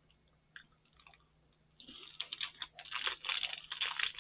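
Chewing a crunchy Kit Kat wafer bar: after a quiet start, a rapid run of small crisp crunches begins about halfway in and keeps going.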